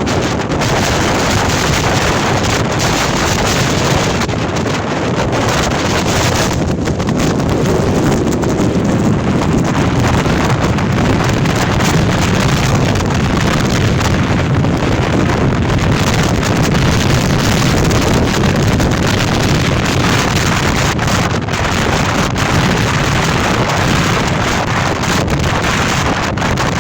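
Storm-force gale wind blasting across the microphone: a loud, continuous rushing noise with no let-up.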